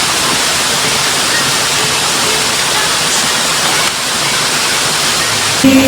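Waterfall rushing, a loud steady roar of falling water close by. Music starts just before the end.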